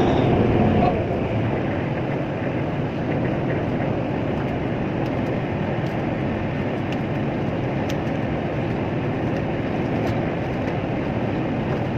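Steady, unbroken drone of a tugboat's engine and machinery, with a rushing noise.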